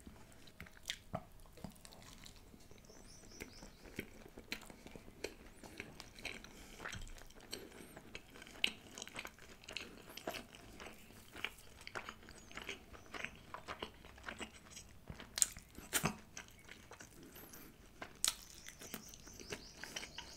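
Close-miked chewing and mouth sounds of a person eating flatbread and chicken: a steady run of short sharp clicks and smacks, with a few louder ones about fifteen and eighteen seconds in.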